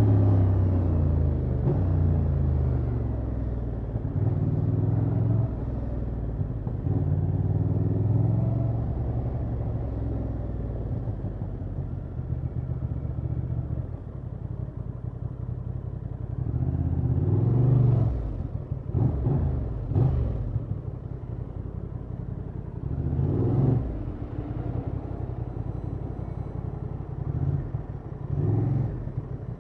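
Honda XL750 Transalp's 755 cc parallel-twin running through its stock exhaust while riding. Over the first ten seconds the engine note drops in steps as the bike slows through the gears. It settles to a low, quieter run, then gives several short rises in engine sound in the second half.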